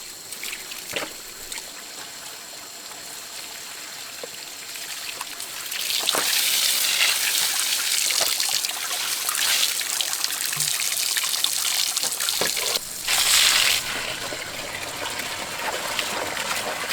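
Water trickling and splashing, starting to run harder about six seconds in, with a brief louder gush a little after halfway.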